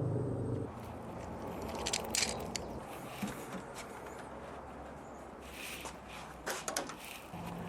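Scattered light clicks and knocks of wood pieces and tools being handled on a workbench, the sharpest about two seconds in and again near the end. A low steady hum fades out within the first second.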